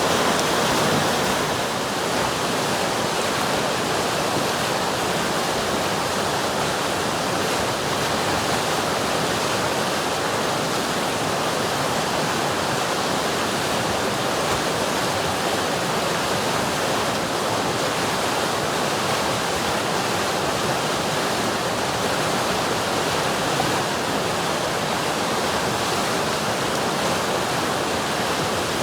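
River water rushing steadily, an even hiss-like rush with no breaks.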